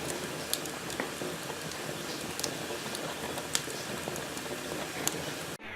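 Wood fire crackling in a fireplace: a steady hiss with scattered sharp pops, cutting off suddenly near the end.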